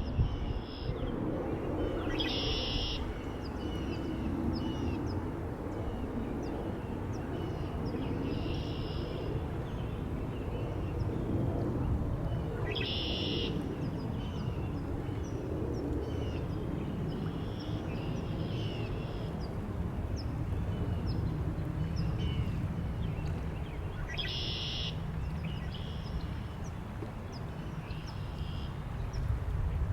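Wild birds singing over steady wind. One loud call comes three times, about every eleven seconds, with softer calls and faint chirps in between.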